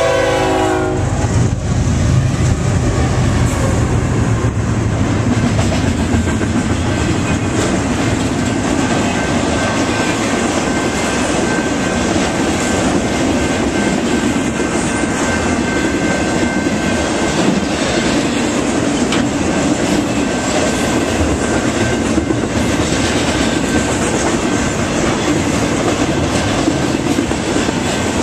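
Four BNSF ES44DC diesel locomotives pass close by, with the last of a locomotive horn blast cutting off within the first second. A deep engine rumble follows for several seconds. Then comes the steady rolling noise of a long trailer-on-flatcar intermodal train going by, wheels clicking over the rail joints.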